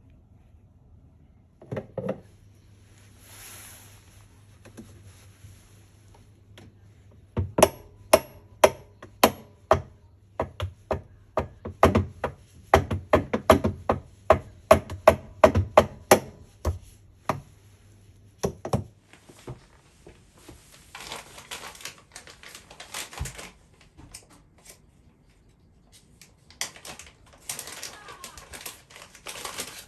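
A run of sharp knocks and clicks, two or three a second for about ten seconds, then rustling and scraping near the end, from hands and tools working on washing-machine parts.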